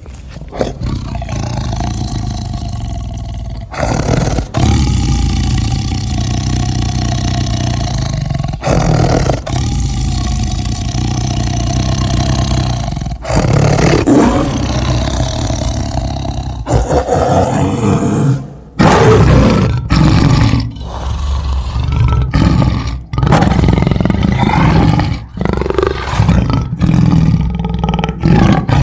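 Lion roaring: a series of long, deep roars that give way to shorter grunting calls in quick succession.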